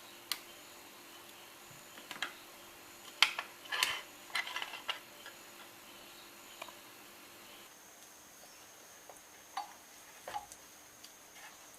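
Scattered light clicks and taps of hand tools and small metal parts being handled, busiest a few seconds in, over a faint steady hum.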